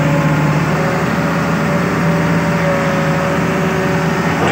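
Hitachi Zaxis 200 excavator's diesel engine running at a steady speed, with a high steady whine over the engine note. Its throttle is now worked by a cable tied in place of a faulty throttle angle sensor.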